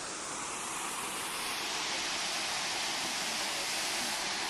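Steady rushing hiss of a small waterfall, growing a little louder about a second in.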